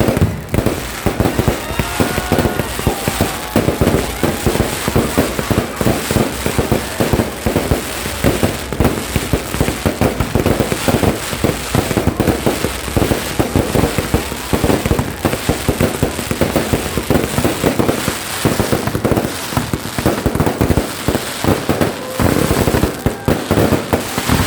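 Fireworks going off in a rapid, unbroken stream of bangs and crackling pops.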